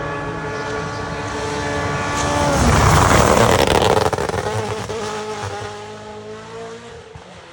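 A WRC rally car's turbocharged engine running at high revs, its pitch dropping about two and a half seconds in. A loud rush of tyre and gravel noise follows as the car passes, then the sound fades away.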